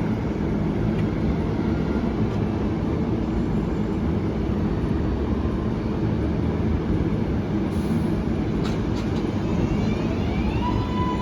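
R188 subway train rumbling along the elevated track, with a few clicks near the end. In the last second or so, the electric propulsion whine rises in pitch and then holds steady.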